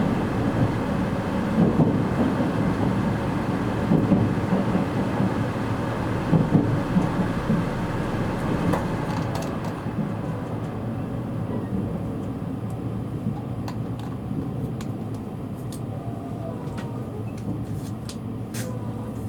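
Running noise inside a JR East E653 series electric train slowing for its final stop. Wheel thumps over the rail joints come about every two seconds and spread further apart as the train slows. The rumble and hiss die down in the second half, and a few small clicks come near the end.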